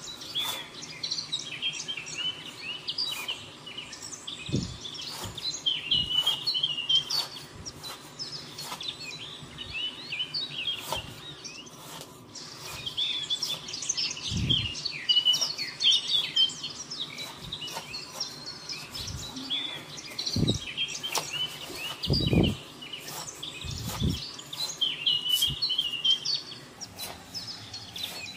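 Many small birds chirping and calling in a dense, continuous chorus, with a few dull low thumps scattered through it.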